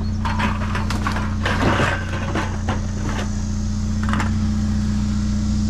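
A cardboard box being handled and rummaged through, giving irregular crackles and clatters of the cans inside, over the steady hum of an idling vehicle engine.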